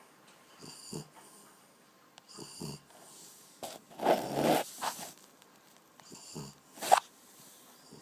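French bulldog snoring, with a rough rattling snore on each breath about every two seconds, four in all. The breath about four seconds in is the loudest and longest.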